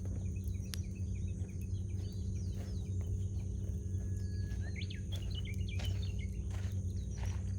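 Wood campfire crackling with scattered sharp pops over a steady low rumble, while small birds chirp nearby in quick bursts of short calls.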